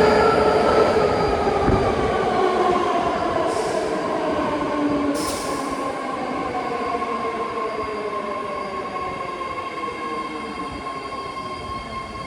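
A 9-car BART train slowing into the station, its motor whine falling steadily in pitch as it decelerates, with squealing from the wheels. There are two short hisses about three and a half and five seconds in, and the sound slowly fades.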